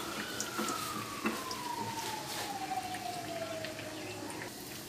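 Chicken patties deep-frying in a pan of oil, with a single high tone in the background falling slowly in pitch over about four seconds, and a light clack about a second in.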